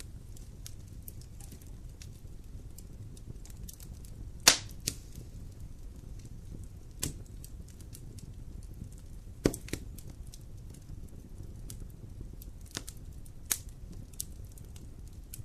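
Wood campfire burning, its low steady rumble broken by scattered crackles and several sharp pops, the loudest about four and a half seconds in and another near the middle.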